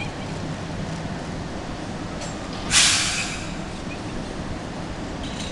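JR Kyushu 303 series electric train standing at the platform, its equipment giving a low, steady hum. About three seconds in comes one short, loud hiss of released compressed air, which fades quickly.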